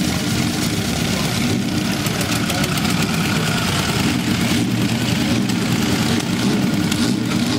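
Vintage Morgan three-wheeler's engine running steadily as the car is driven slowly past.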